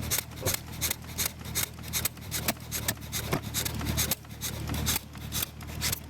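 1923 McCormick Deering model M 1.5 hp single-cylinder engine clicking about three times a second while it is shut down by holding the intake valve in. Being hot, it still tries to fire. A steady low hum from other engines runs underneath.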